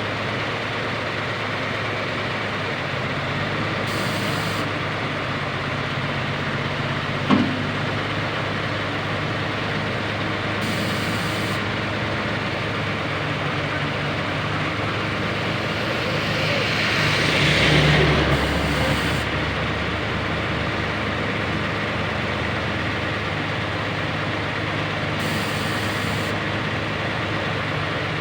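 Heavy-equipment diesel engine running steadily with a low hum, as a pneumatic-tyred road roller is loaded for transport. There is one sharp knock about seven seconds in, and a louder swell of rushing noise a little past halfway.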